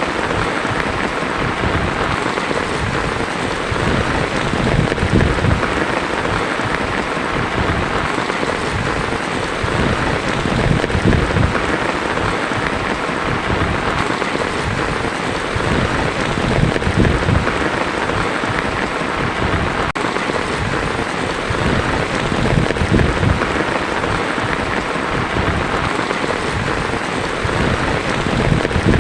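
Heavy rain falling on a tin roof: a steady, dense hiss. Low rumbles of thunder swell and fade about every six seconds.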